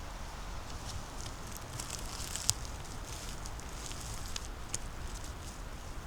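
Footsteps crunching through dry leaf litter and twigs on a forest floor: irregular small crackles, with one sharp twig snap about two and a half seconds in.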